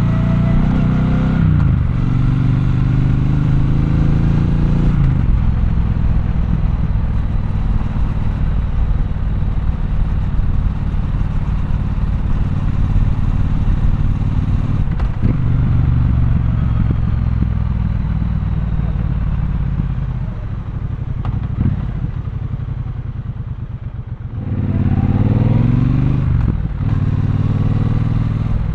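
Triumph Bonneville Bobber's 1200 cc parallel-twin engine under way: it revs up through the gears with rising pitch, runs steadily, and eases off and quiets for a few seconds. About 25 seconds in it pulls hard again, with a brief dip as the rider shifts.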